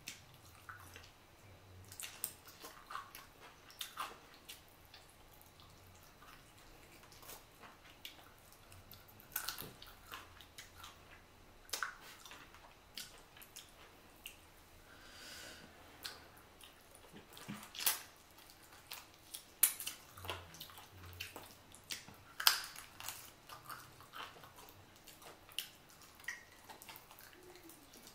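Close-miked chewing of boiled chicken meat: quiet, wet mouth sounds with many short, sharp clicks at irregular intervals.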